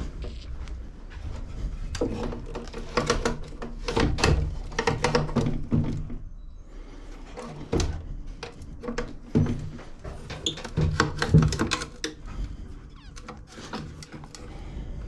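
Irregular clicks, knocks and rattles of lawnmower parts being handled and moved, with a few short squeaks.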